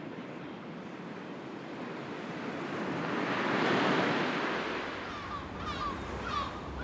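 Sea waves washing ashore, one wave swelling to a peak about four seconds in and then drawing back. A bird starts calling repeatedly near the end.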